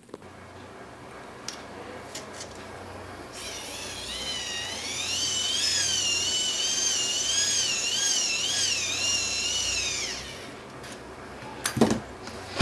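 Hand-cranked microwave oven turntable motor run as a generator, its reduction gears whirring. The whine is loudest from about four to ten seconds in, with a pitch that wavers up and down as the cranking speed changes. It eases off, and a couple of sharp clicks follow near the end.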